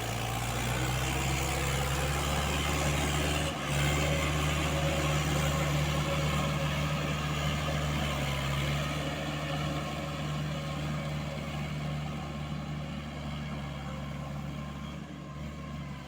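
Tractor diesel engine running hard at high revs while pulling through mud, a steady drone with a brief dip about three and a half seconds in, then growing gradually quieter over the second half.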